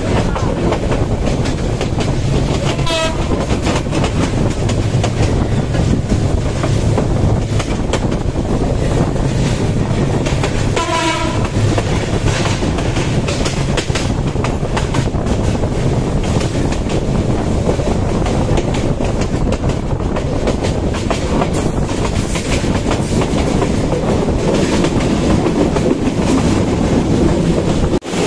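Passenger train running at speed, heard from an open coach door: a steady rumble and rush of wind with quick wheel clatter over rail joints. Two brief wavering horn sounds, about three seconds in and again around eleven seconds.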